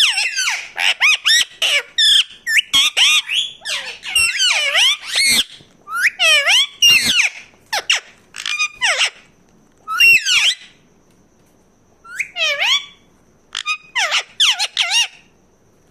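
Parakeet squawking: a rapid series of loud, harsh calls that sweep down and up in pitch, with a short pause about two-thirds of the way through.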